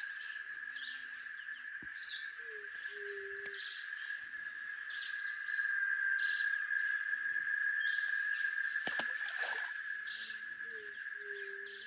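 Outdoor nature sound with many short bird chirps over a steady, high insect drone. A lower two-part call is heard a few seconds in and again near the end, and there is a single sharp click about nine seconds in.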